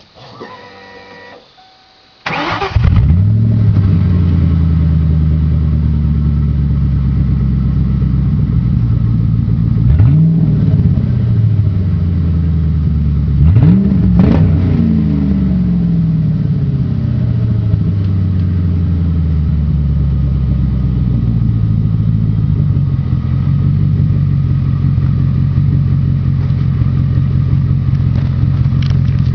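1996 Ford Mustang GT's 4.6-litre V8 with the mufflers deleted behind the factory H-pipe, starting about two seconds in with a flare of revs and settling to a loud, steady idle. It is revved twice partway through, each blip rising and falling quickly, before going back to idle.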